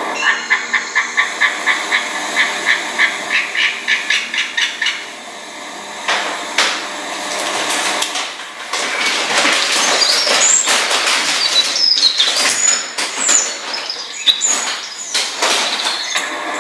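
A bird repeating a short call, about three times a second for some five seconds, then rustling and scratching with short high chirps over it.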